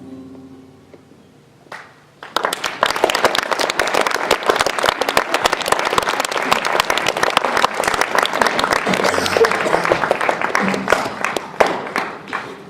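Audience applauding after a song ends: the last held note dies away in the first second, then clapping breaks out a little over two seconds in and thins out near the end.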